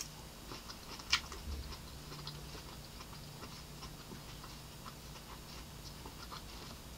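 Faint closed-mouth chewing of a cherry tomato: soft wet clicks and smacks, with one sharper click about a second in.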